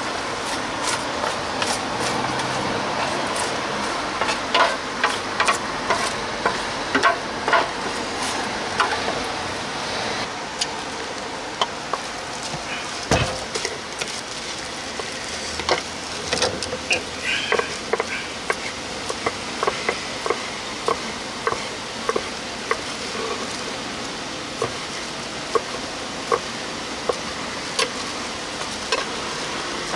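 Sundae being stir-fried in a pan: a steady sizzle with many sharp knocks of a cooking utensil, coming in a fairly even run of about two a second through the second half.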